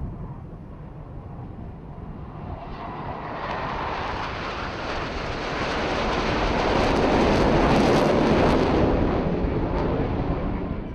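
Jet noise from the Black Eagles' KAI T-50B jets, each with a single turbofan, passing in a flyby. The roar builds over several seconds, peaks near the end, then cuts off suddenly.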